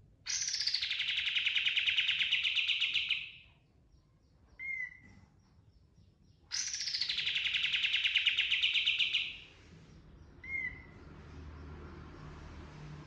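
White-shouldered triller (kapas tembak) singing its rolling trill twice. Each song opens with a falling note, runs on for about three seconds as a fast buzzy trill, and is followed by one short, clear note.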